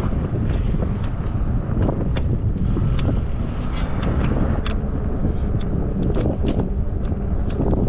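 Wind rumbling on the microphone of a camera riding on a moving e-bike, with scattered sharp clicks and knocks over the steady rumble.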